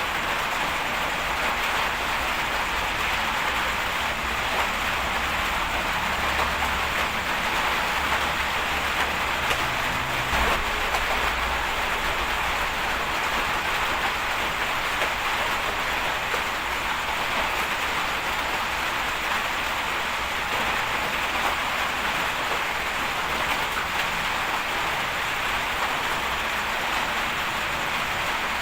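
Steady hiss of heavy rain, with a low engine rumble underneath that grows a little stronger a few seconds in and then eases.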